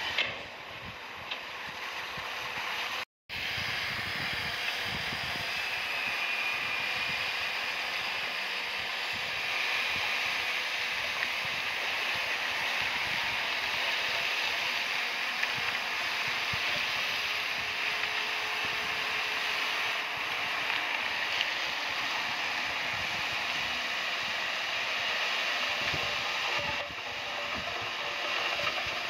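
Komatsu crawler bulldozer working: diesel engine running steadily with the clatter of its tracks and moving parts. The sound cuts out briefly about three seconds in.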